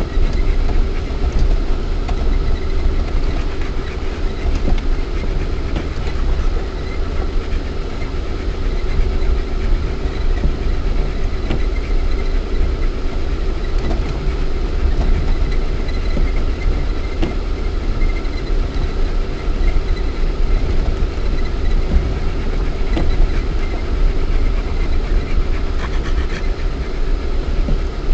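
Lada Niva 4x4 driving offroad over a rough dirt track, heard from inside the cabin: its 1.7-litre petrol four-cylinder engine and drivetrain give a steady low rumble and hum, with frequent small rattles and knocks from the body and suspension over the bumps.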